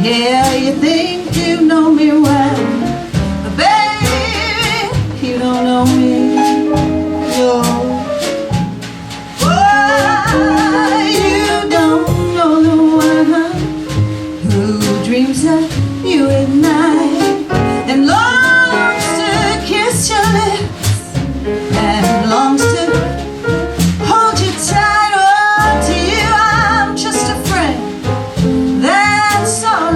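A woman singing a song with instrumental accompaniment, her sung lines gliding and bending in pitch over steady backing notes.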